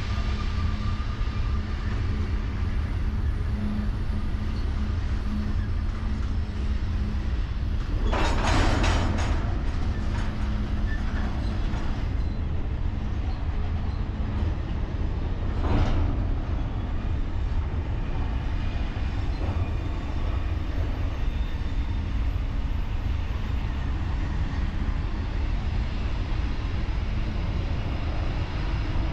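Freight train: a steady low rumble of diesel locomotives and rolling cars, with a constant hum running under it. Two short, louder bursts of noise come about 8 and 16 seconds in.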